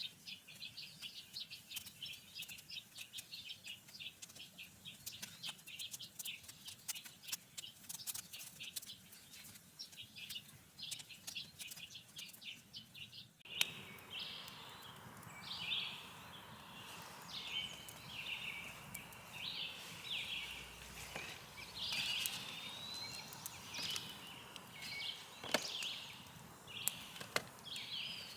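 Outdoor birds chirping and calling: a rapid, dense stream of short high chirps. About halfway through, the background changes abruptly to a steady hiss, with louder, scattered calls over it.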